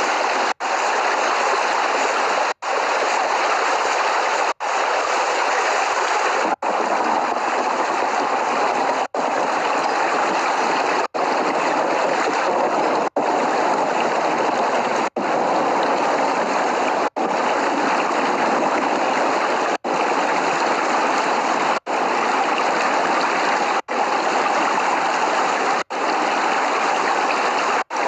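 Steady heavy rain, a dense even hiss with no thunder, broken by a brief gap about every two seconds.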